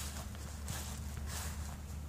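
Footsteps of a person walking, soft and regular, over a low steady background hum.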